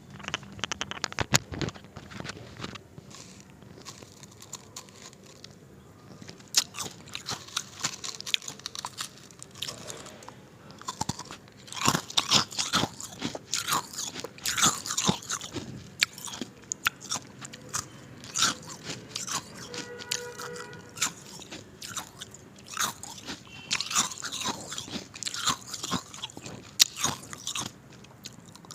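Ice being bitten and crunched close to the microphone: repeated sharp cracks and crunches at an irregular pace, growing denser after the first few seconds.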